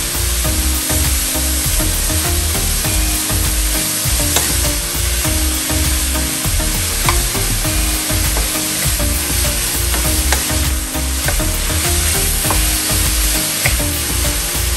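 Sliced beef sizzling as it stir-fries in a nonstick wok, pushed and scraped around the pan with a wooden spatula, with a few clicks of the spatula against the pan.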